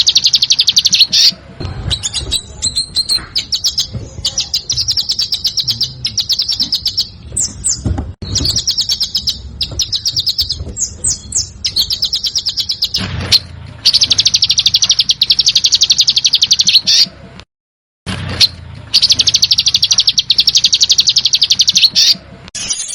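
Small songbird giving besetan: fast, dense, high-pitched trills of many quick notes, repeated in bouts of about two to three seconds with short gaps between.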